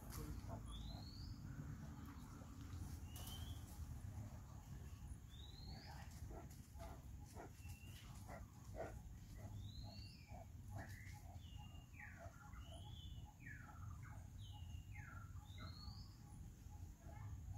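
Birds calling in the surrounding trees, faint: a short rising whistle repeated every couple of seconds, joined after a few seconds by a steady run of short low notes at about two a second and, in the second half, several falling calls.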